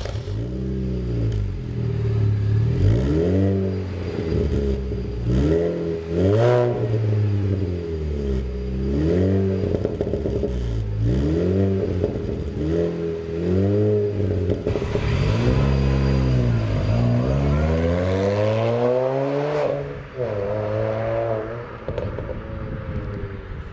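Mini Cooper R53's supercharged 1.6-litre four-cylinder engine revved repeatedly through an Xtreme Line Twister sport exhaust with twin tailpipes, the pitch rising and falling about every two seconds. About 15 seconds in, one longer rev climbs higher before dropping suddenly, and short blips follow.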